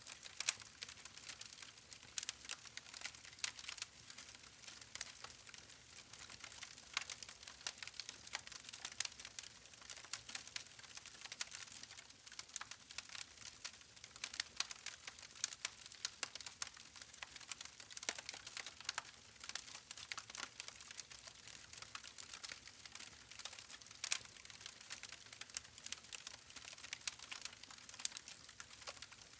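Campfire burning: wood crackling and popping with many small irregular snaps over a soft hiss.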